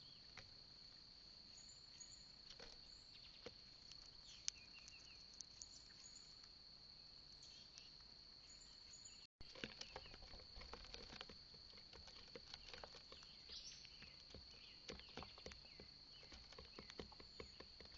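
Faint, steady, high-pitched insect drone, with scattered light clicks and taps at the feeder. It breaks off for a moment about nine seconds in.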